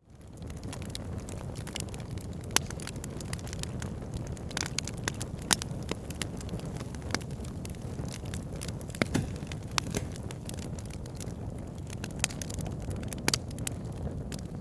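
Wood fire burning in a fireplace: a steady low rumble with constant crackling and scattered sharper pops. It fades in from silence at the start.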